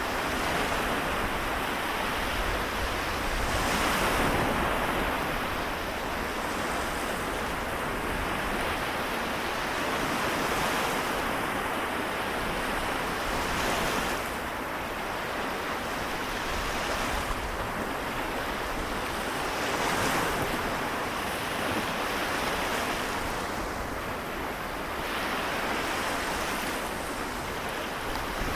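Small waves of the Seto Inland Sea washing onto the shore in a continuous hiss, swelling every few seconds as each wave breaks.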